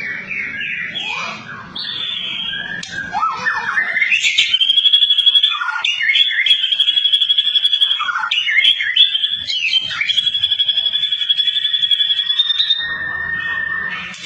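Songbirds singing: quick chirps and sweeping whistled notes, then a long, high, rapid trill held for several seconds with short breaks, ending on a lower steady whistle.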